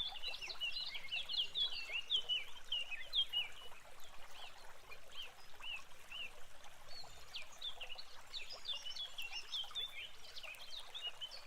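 Birds chirping: a busy run of many short, quick notes that thins out in the middle and picks up again toward the end, over a faint steady rush.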